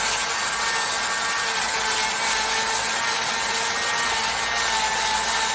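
Chainsaw held at steady full speed, cutting into an oak trunk to open the felling notch.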